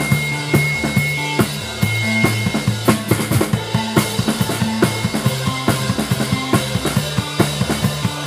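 Live rock band playing an instrumental passage: a drum kit beats a steady rhythm of kick and snare hits over a held bass line, with no singing.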